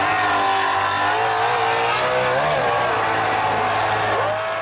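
Race-built Chevrolet Malibu station wagon's engine at full throttle, launching into a wheelstand and pulling hard down the drag strip. The note holds a fairly steady pitch, with a brief wobble about halfway through.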